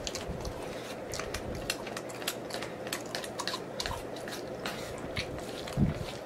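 Close-miked chewing of sticky glazed chicken wings and noodles, with many short wet mouth clicks and smacks. A dull low thump comes near the end.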